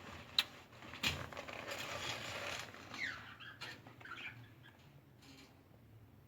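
Budgerigars in a breeding cage: a sharp click, then about a second and a half of rustling and scratching, followed by a few short, falling chirps.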